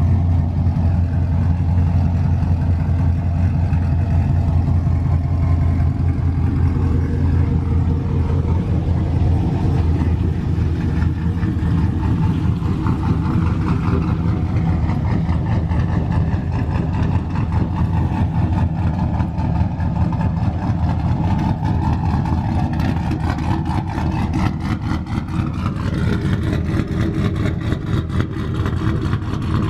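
Cammed 6.0 V8 of a lifted Chevy Silverado on new headers, running with a steady deep exhaust drone; its pitch slides gently up and down from about ten seconds in.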